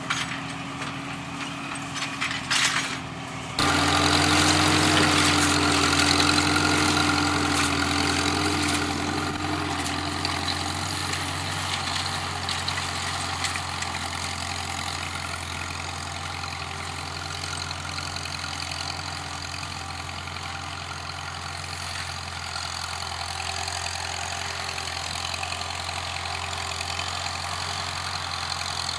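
Old International H farm tractor's engine catching after a few knocks, about three and a half seconds in, then running steadily at idle.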